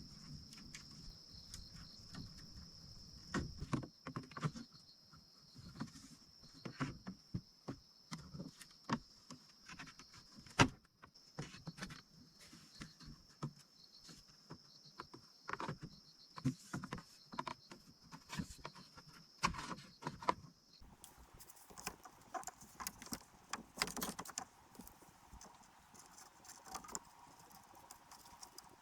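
Irregular knocks and clicks of bamboo being handled and worked, some louder strokes among many light taps. A steady high-pitched tone runs underneath and stops abruptly about two-thirds of the way through, where the background changes.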